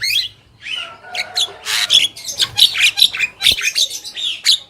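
Javan mynas calling: a busy run of harsh squawks, whistled notes and chatter that stops abruptly near the end.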